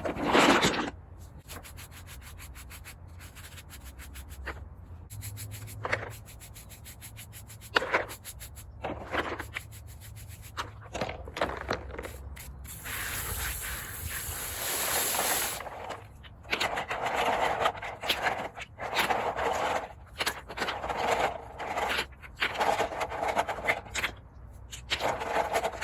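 Rocks being washed by hand, rubbed and scraped against each other in water, with repeated scrubbing strokes in the second half.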